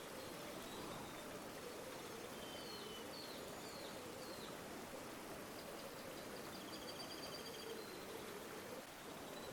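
Steady rush of a flowing river, with small birds calling over it: a run of short high chirps a few seconds in and a high trill later on.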